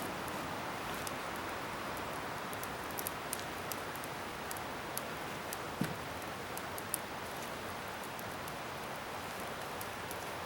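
Scrap-wood bonfire burning with a steady hiss and many small sharp crackles. One fuller pop comes about six seconds in.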